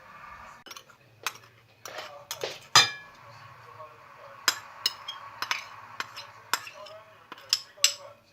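Metal cutlery clinking against crockery: a dozen or so sharp, separate clinks at an irregular pace, a few of them ringing briefly, the loudest a ringing clink about three seconds in.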